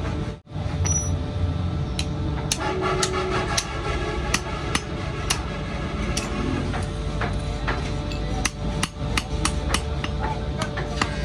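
Repeated hammer strikes on metal during a rusty knife restoration, irregular and about one to three a second, each a sharp ringing tap, over a steady low hum. The sound drops out briefly about half a second in.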